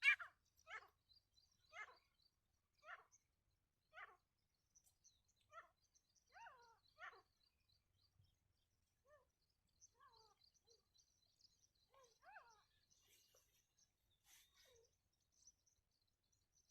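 Grey francolin calling: a run of repeated, downward-sweeping calls about once a second, growing sparser and fainter in the second half. Faint high chirping from other birds runs above them.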